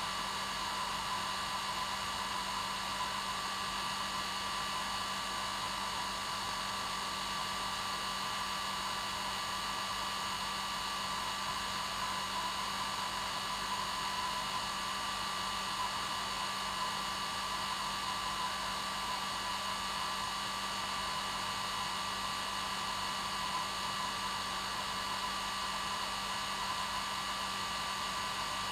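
Hair dryer running steadily on its normal setting, with a constant airy rush and a steady whine of several fixed tones from its motor and fan.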